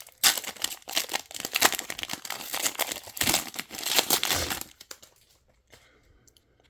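A trading-card pack wrapper being torn open and crinkled in the hands, with dense crinkling for about four and a half seconds that then dies away to faint handling.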